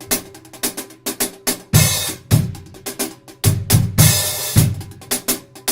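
Drum kit played in a short groove, with 14-inch Krest HX hi-hats over snare and bass drum hits. Two longer cymbal washes ring out, about two seconds in and again around four seconds in.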